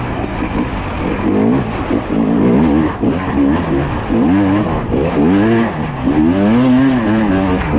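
Two-stroke enduro motorcycle engine heard on board, revving up and down as the throttle is worked, its pitch rising and falling every second or so.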